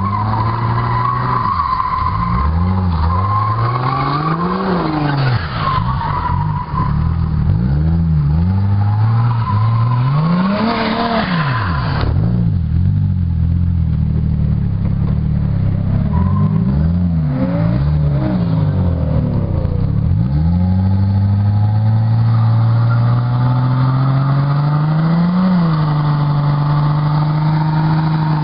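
Turbocharged Mercedes-Benz W124 E320 straight-six revving up and down over and over while the car drifts in circles, tyres squealing. In the last third the engine holds steady high revs in a smoky burnout of the rear tyres.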